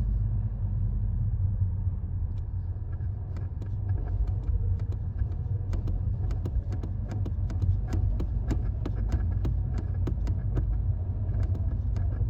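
2016 Audi TT Mk3 under way with a steady low rumble, over which comes a rapid, irregular chatter of sharp clicks, thickest through the middle. The chatter on light throttle is the sign of a worn transmission mount.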